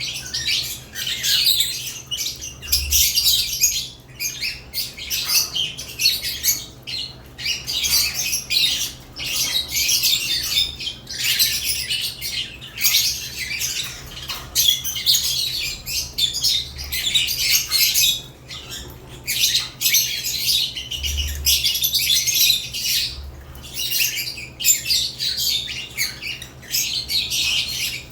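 Caged lovebirds chirping and squawking, many high, chattering calls overlapping with hardly a pause. A faint steady low hum runs underneath.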